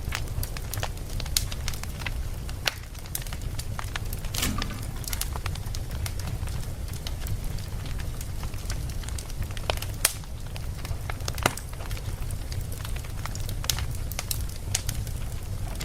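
Campfire burning, with irregular sharp crackles and pops over a steady low rumble; the loudest pop comes about ten seconds in.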